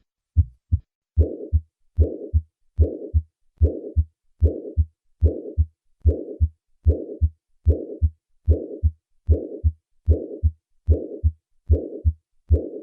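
Heart sounds at about 70 beats a minute: a paired lub-dub alone for the first second, then a systolic murmur joins, a whooshing noise filling the gap from the first heart sound to the second on every beat, the murmur of mitral regurgitation.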